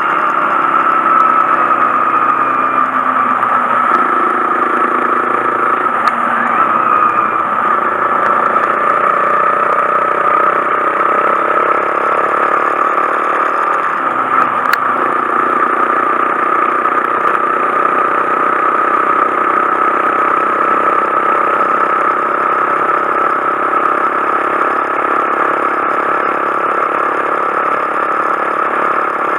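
Honda Monkey 125's single-cylinder engine running steadily.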